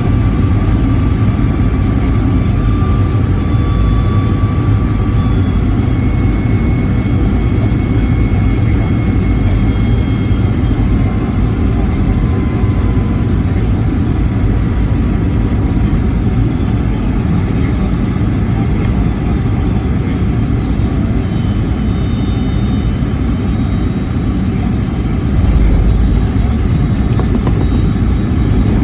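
Boeing 757-300 jet engine noise heard inside the cabin: a steady low rumble with faint whining tones drifting in pitch, and a small rise in loudness near the end.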